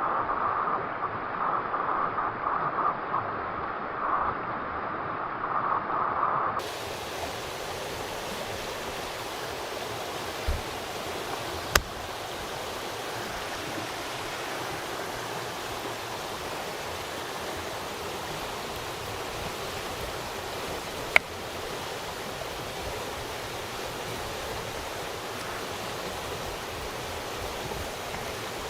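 Steady rushing water of a stream, with two sharp clicks, one near the middle and one about two-thirds through. For the first few seconds a different, muffled and fluctuating noise is heard, and it cuts off abruptly.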